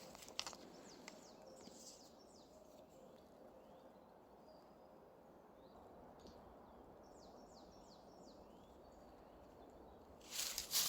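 Faint steady rush of a stream with small birds giving quick, high, falling chirps in short runs. Loud rustling starts near the end.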